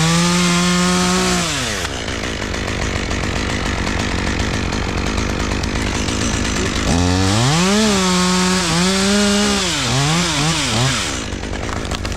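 Chainsaw revving in two bursts: a short one at the start and a longer one from about seven seconds in, whose pitch dips and recovers several times before it stops. A steady engine noise runs underneath.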